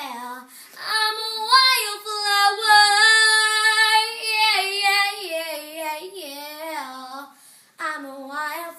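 A young girl singing solo. She holds a long high note with a waver in it, then steps down through a run of notes and ends on a low note.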